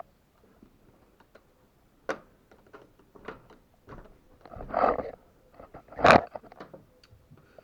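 Scattered scraping and rustling noises with a few sharp knocks: one about two seconds in, a longer scrape around five seconds, and the loudest knock about six seconds in.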